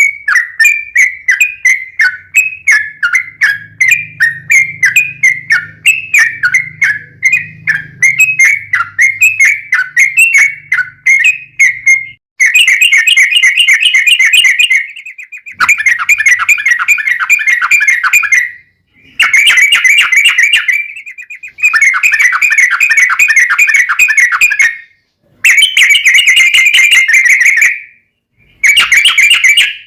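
Yellow-vented bulbul (trucuk) singing: a long run of quick repeated chirps, then rapid, dense trilled phrases of a few seconds each, broken by short pauses. This is the long 'ropel' song used to lure other trucuk birds into answering.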